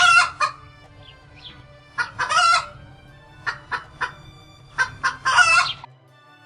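A chicken calling: three loud, pitched calls, one near the start, one about two seconds in and one about five seconds in, each preceded by a few short clucks. Faint background music runs underneath and is left alone near the end.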